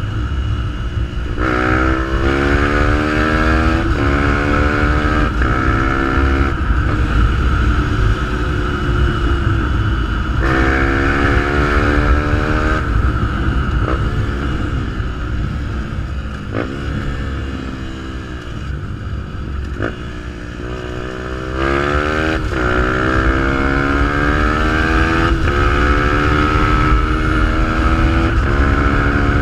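Fantic 125 supermoto motorcycle with a GPR exhaust accelerating through the gears. The engine note climbs and drops back at each upshift in runs of several gears, eases off and falls in pitch for a few seconds past the middle, then pulls through the gears again.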